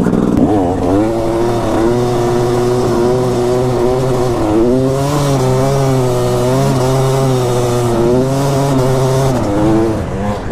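Dirt bike engine running under throttle, its pitch rising and falling as the rider works the throttle, with a quick rev about half a second in.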